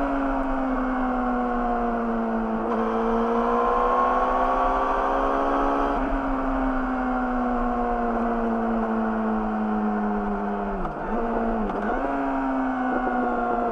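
Yamaha YZF-R6 inline-four through an Akrapovic slip-on exhaust, heard while riding. The revs fall at first, pick up again about three seconds in and climb, then ease off steadily. Two short dips in revs come near the end.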